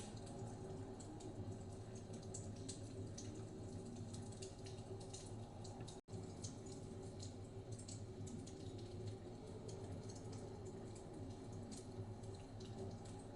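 Wood fire crackling with irregular small pops and snaps over a steady low rumble of blizzard wind. The sound drops out for an instant about halfway through.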